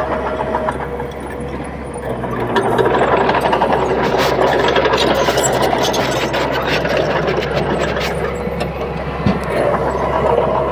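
Komatsu D31P bulldozer's diesel engine running steadily at work, growing louder about two and a half seconds in, with many sharp clicks and knocks over it.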